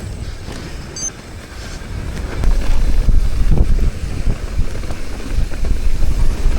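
Mountain bike descending a dirt trail at speed: wind buffeting the microphone over tyre rumble and rattling from the bike, much louder from about two and a half seconds in.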